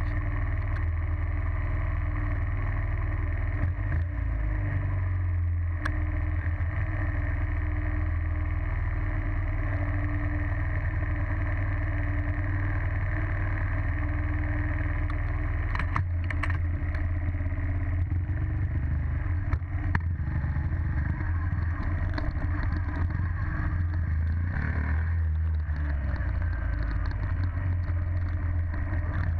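Dirt bike engine running steadily, with a few sharp knocks about two-thirds of the way through.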